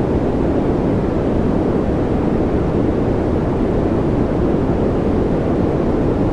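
Steady noise track for focus and relaxation: a deep, even rushing sound, heavy in the low end with little hiss, unchanging throughout.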